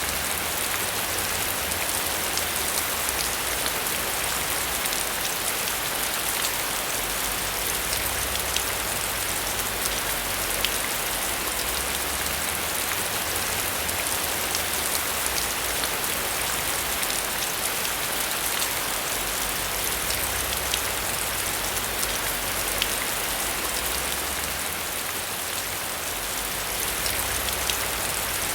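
Steady heavy rain pattering on a surface, thick with fine drop ticks, over a low rumble that swells and fades every few seconds.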